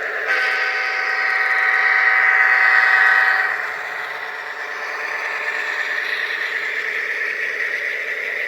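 HO scale model diesel locomotive's sound system sounding its horn in one held blast of about three seconds, over the steady running sound of the locomotive.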